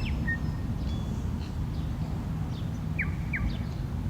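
Birds chirping outdoors: a few short, quick calls that sweep downward in pitch, two of them close together about three seconds in, over a steady low rumble.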